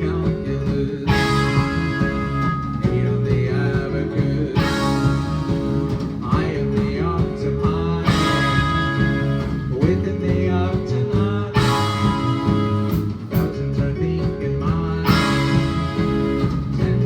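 Live band playing a rock song with electric guitar to the fore, with a strong accented hit about every three and a half seconds.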